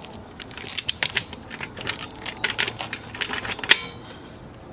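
Click-type torque wrench ratcheting a wheel lug nut down in a run of quick, irregular clicks, then one sharp, louder click with a brief ring a little before the end: the wrench breaking over at its set torque of 90.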